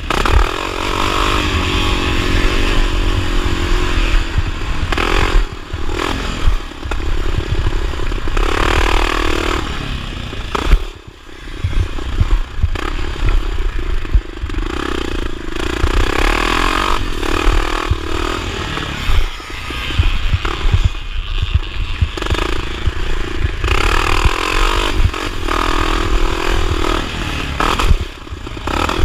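1979 Honda XR500 single-cylinder four-stroke motocross engine, loud, revving up and falling back again and again as the throttle opens and closes, with a short drop in engine noise about eleven seconds in. Wind and rattling noise run under the engine.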